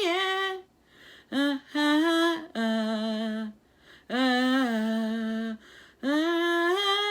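A woman singing unaccompanied, ad-libbing drawn-out "yeah" notes in a string of short phrases with gliding pitch, broken by brief pauses.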